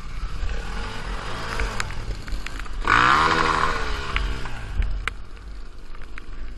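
Dirt bike engine running at low revs with scattered clicks and rattles, revving up about three seconds in and easing back off over about a second.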